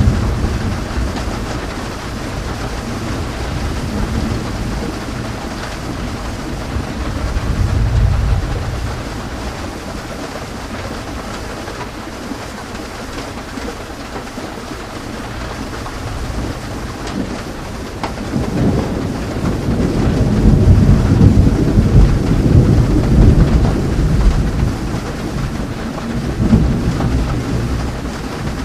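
Rain falling steadily in a thunderstorm, with rolling thunder: a low rumble swells about a quarter of the way in, and a longer, louder rumble rolls through most of the second half.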